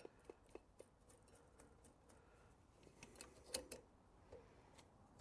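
Near silence with faint scattered clicks and light taps of throttle cables and fittings being handled at a motorcycle carburettor, the clearest a little after halfway.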